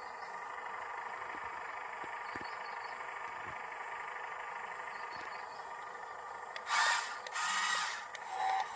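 Small electric motors of a remote-controlled toy excavator whining steadily, with two louder noisy bursts near the end.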